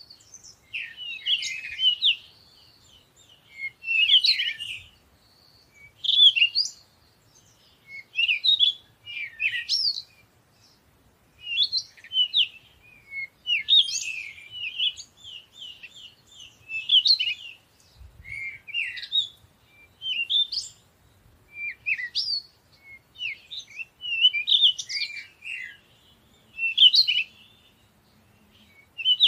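Small birds chirping and twittering in short clusters of quick high notes, repeating about every two seconds.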